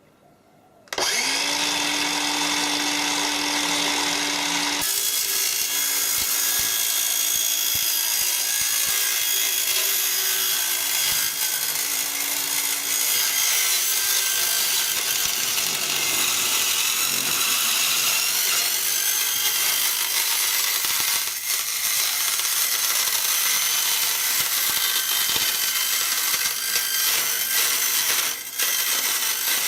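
Electric power tool starting up about a second in and running steadily, its motor tone settling after a brief rise and changing about five seconds in.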